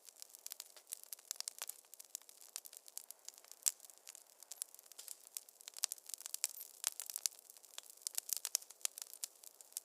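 Wood fire crackling in a fireplace: a dense, irregular run of small sharp pops and snaps, with one louder pop a little under four seconds in.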